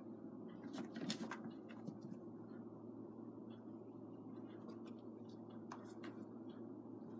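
Faint scattered clicks and light scratching from kittens moving and playing, with a brief cluster about a second in, over a steady low room hum.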